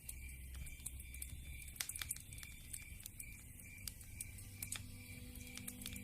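Wood fire crackling, with irregular sharp pops and snaps over a faint low hum. Soft, low, sustained tones come in near the end.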